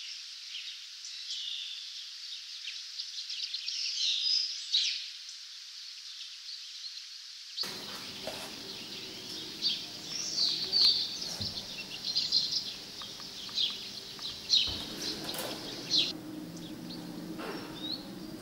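Birdsong: many birds chirping and trilling in short, overlapping calls. About seven and a half seconds in, a low background hum joins the birds.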